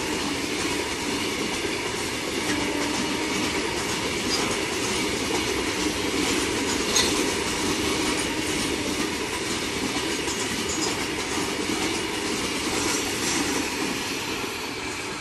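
Freight train of covered goods wagons rolling past close by: a steady rumble and clatter of steel wheels over the rail joints, with brief high wheel squeals now and then. The noise eases off near the end as the last wagon and brake van go by.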